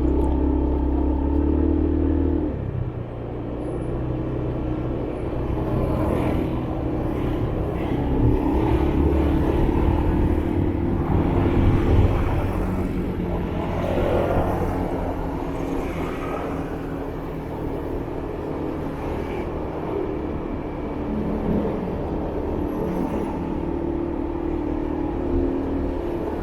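Motorbike engine running steadily on the move through city traffic, with the hum of other vehicles around it.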